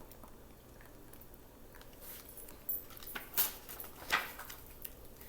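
A few soft rustles and light taps from a picture book's pages being handled and turned, mostly in the second half.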